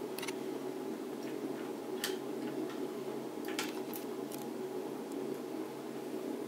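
A handful of short, sharp clicks and taps from the stock Intel CPU cooler being handled and fitted onto the motherboard, over a steady background hum.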